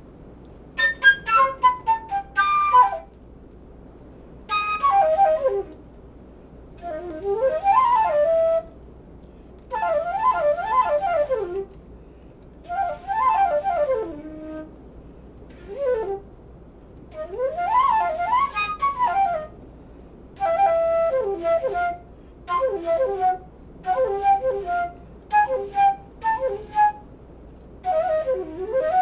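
Curved-neck flute played in a string of short, quick phrases, with runs of notes sweeping up and down and brief pauses between phrases. A steady faint hiss of rain on a tin roof sits underneath.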